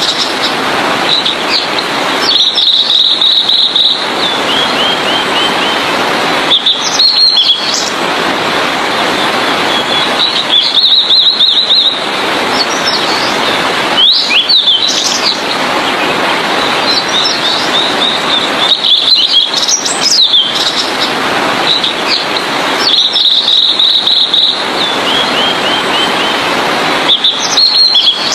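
Blue-and-white flycatcher singing. It gives short phrases of high whistles and quick trills, each a second or two long, repeated about every four seconds. A steady hiss runs underneath.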